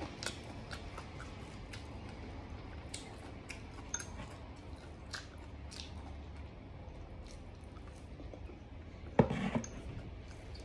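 Close-miked eating sounds: scattered soft wet clicks and smacks of chewing pig ear and tongue and handling the food, with a louder mouth sound about nine seconds in.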